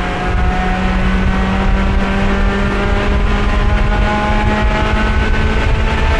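Race car engine heard from inside the cockpit, pulling with its pitch climbing slowly and steadily, over heavy wind and road rumble. The car is held in fourth gear, the only gear its failing transmission will stay in, so there is no gear change.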